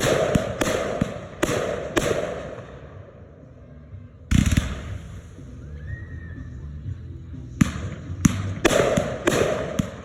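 Consumer fireworks going off: a quick run of sharp bangs, then one heavy low boom about four seconds in, then another fast run of bangs near the end.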